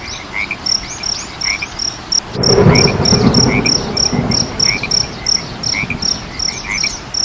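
Frogs and insects calling at night: a steady rhythm of short high pulses with rising chirps among them. About two and a half seconds in, distant thunder rumbles in suddenly and fades over a couple of seconds.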